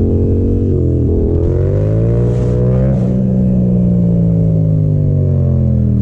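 Yamaha FZ-07's 689 cc parallel-twin engine running under throttle: the revs dip briefly about a second in, climb for two seconds, then slowly fall away.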